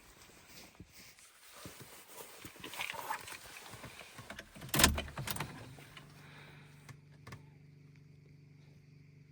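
Handling noises with a jingle of keys, a single loud thump about five seconds in like a car door shutting, then a steady low hum.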